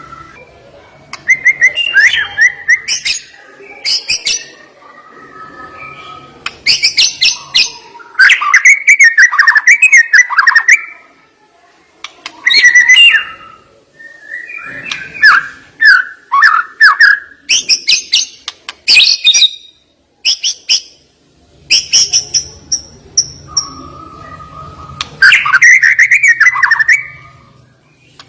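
White-rumped shama (murai batu) singing: loud, varied phrases of sharp high ticks, rapid trills and whistled notes, including mimicked 'isian' song material, delivered in bursts separated by short pauses.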